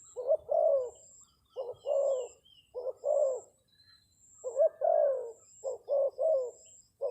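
Spotted dove cooing in short phrases of two or three notes, repeated about every second or so. Faint high chirps of a small bird sound alongside.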